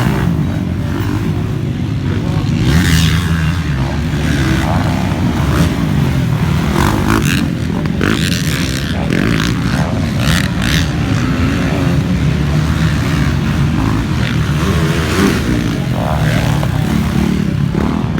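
Motocross bikes racing on the track, their engines revving up and down continuously.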